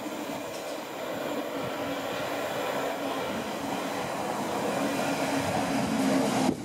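Class 455 electric multiple unit running in alongside the platform: wheels rumbling on the rails with a steady hum, growing louder as the train comes close, then cut off abruptly near the end.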